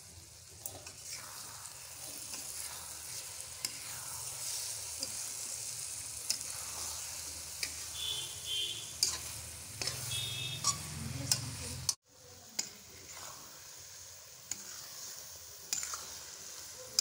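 Boiled eggs sizzling in oily masala in a metal kadai, with a steel spoon stirring and clinking against the pan. The sound cuts out for a moment about twelve seconds in.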